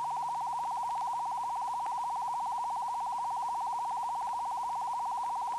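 A steady mid-pitched electronic tone with a fast, even pulse, holding one pitch and level throughout: a sound effect laid under the animation.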